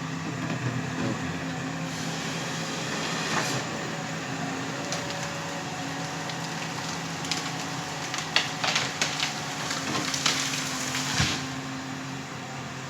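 Forestry harvester's engine running steadily, with a run of sharp cracks and knocks about eight to eleven seconds in.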